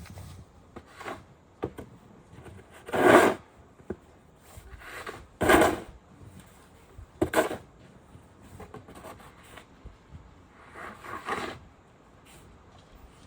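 Snow shovel scraping in separate short strokes a couple of seconds apart; the loudest come about three and five and a half seconds in.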